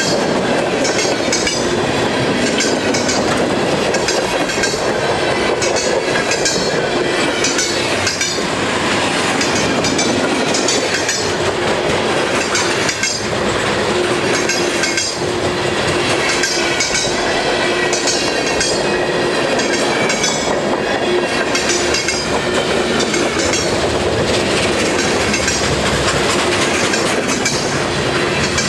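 Freight cars of a passing Union Pacific train rolling by close at hand: a steady loud rumble of steel wheels on the rails with a repeating clickety-clack. A steady hum joins in for several seconds around the middle.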